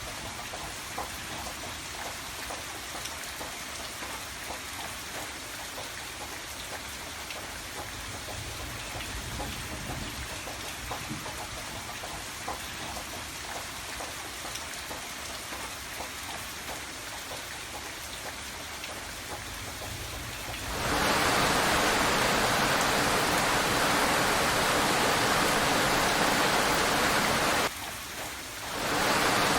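Steady rain falling, with individual drops pattering on a surface. About two-thirds of the way through it switches suddenly to a much louder, denser rush of heavy rain, which dips for about a second near the end and comes straight back.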